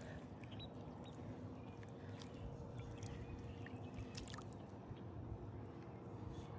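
Faint outdoor background: a low steady rumble with a faint constant hum and scattered light ticks.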